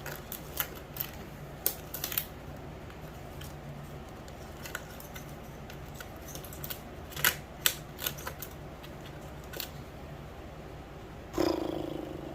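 Scattered small clicks and ticks of metal clips and wire hangers being handled, over a steady low hum. About eleven seconds in there is a single louder thump with a short hollow ring.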